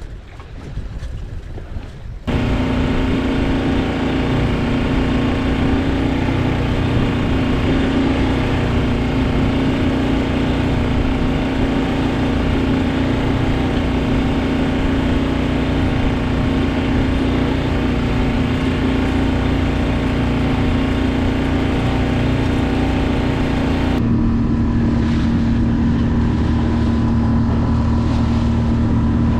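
Wind buffeting the microphone for about two seconds, then a small sailboat's motor running steadily under way with a constant droning hum.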